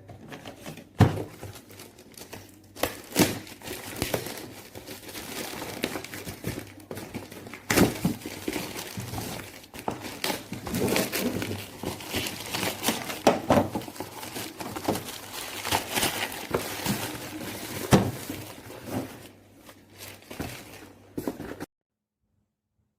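Crinkling handling noise with many sharp knocks and thunks scattered through it, as objects and packaging are handled. It cuts off suddenly about a second before the end.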